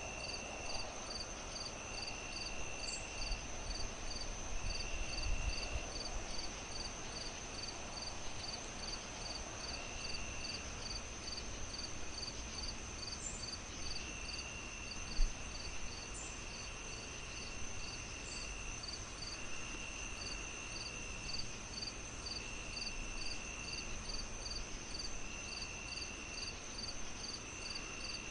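Crickets chirping in an even pulse of about two chirps a second, with another cricket trilling on and off, over the soft hiss and crackle of a wood fire. The fire gives one sharp pop about halfway through.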